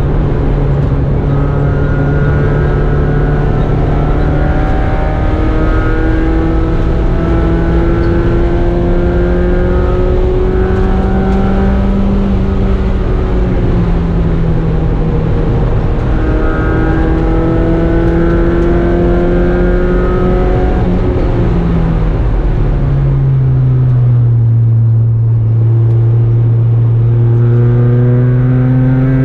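Mazda Miata race car's four-cylinder engine heard from inside the stripped, caged cockpit, running loud and hard on track with its pitch climbing slowly as it pulls. The pitch dips a little near the middle and drops further about three-quarters of the way through, then climbs again.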